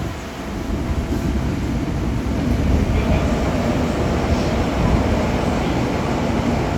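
Tokyo Metro 8000 series subway train running between stations, a steady rumble of wheels on rail with a faint motor tone, swelling a little in the first second and then holding even.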